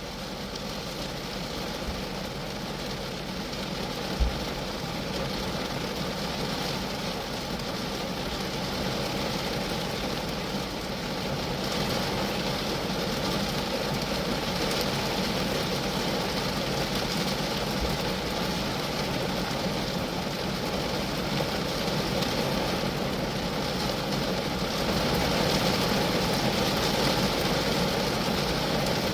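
Steady rain falling on a Geo Metro car, gradually growing a little heavier, with one short low thump a few seconds in.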